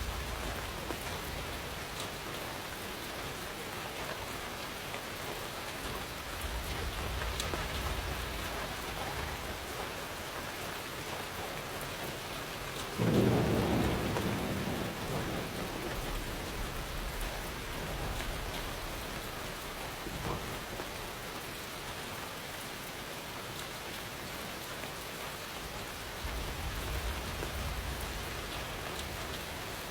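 Steady rain falling, with a sudden loud thunderclap about halfway through that rumbles away over a couple of seconds; softer low rumbles of thunder come and go.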